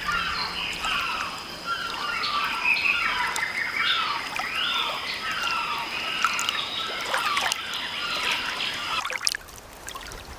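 Many birds chirping and chattering together in short, quick, overlapping calls over a thin steady high tone. It all drops away about nine seconds in.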